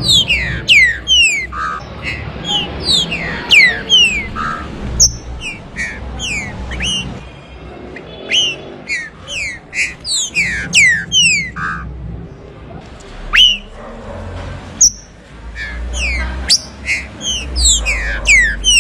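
Green-winged saltator (trinca-ferro) singing: loud phrases of quick, sharply down-slurred whistled notes, repeated over and over with short pauses between phrases, over a low background rumble.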